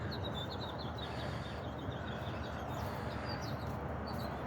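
Small birds chirping: runs of short, high chirps, several a second, over steady outdoor background noise.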